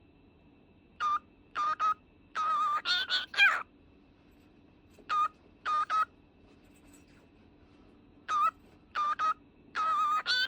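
Cockatiel whistling a short tune in clear notes: a few short whistles and then a longer warbling run, with the phrase starting over about halfway through.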